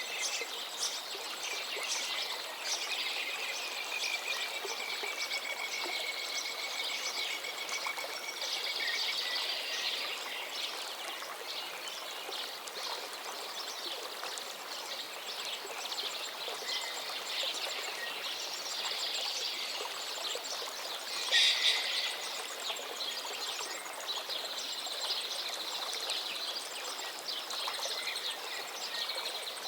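Gently flowing river water with many birds singing over it. A long, slightly falling trill runs from about three seconds in to about eight seconds, and a louder call stands out about two-thirds of the way through.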